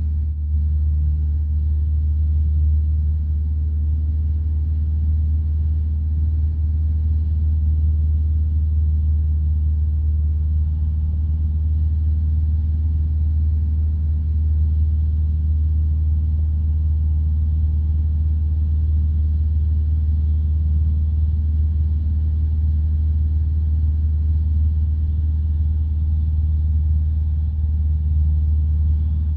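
Single-engine piston light aircraft's engine and propeller droning steadily, heard inside the cockpit, with a deep, even hum and no change in power.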